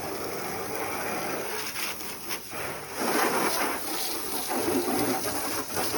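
Water spraying onto a car's body panels while it is washed, a steady hiss of spray that gets louder about three seconds in.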